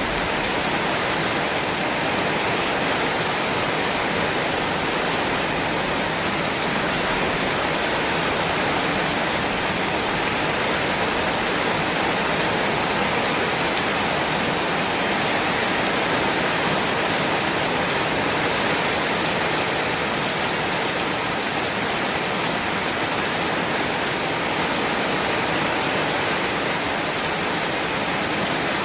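Steady rain falling, an even, unbroken hiss with no thunder or other distinct events.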